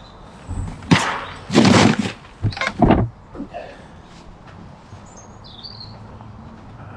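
A few short, loud rustling noises in the first three seconds, then a small wild bird chirps briefly over a quiet outdoor background.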